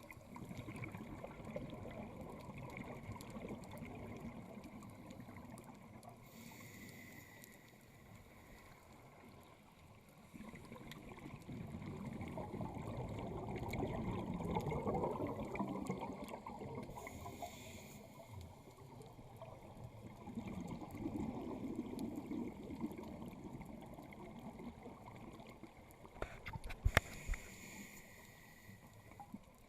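Scuba diver breathing through a regulator, heard through an underwater camera housing: about three breaths, each a short hissing inhale followed by a long rumbling burst of exhaled bubbles. A few sharp clicks sound near the end.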